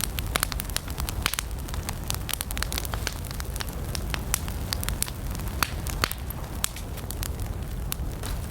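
Wood campfire burning: frequent irregular crackles and pops over a steady low rumble of the flames.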